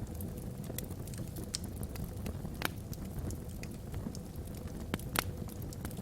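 Wood logs burning in a fireplace, crackling with scattered sharp pops over a low steady rumble; the loudest pops come about two and a half and five seconds in.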